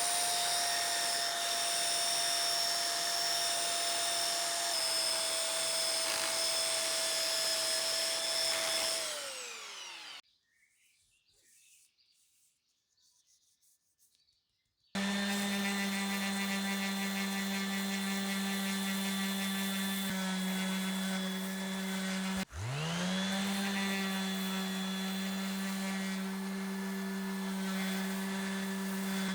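Electric power-tool motors running with a steady whine. A high-pitched one winds down and stops about a third of the way in. After a few seconds of quiet a lower-pitched one runs, and about three-quarters of the way in it stops and spins straight back up to speed.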